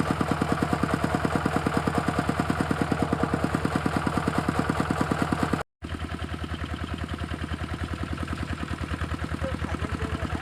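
Walking tractor's single-cylinder diesel engine running steadily with a rapid, even chugging. It cuts out for a split second just past halfway, then carries on slightly quieter.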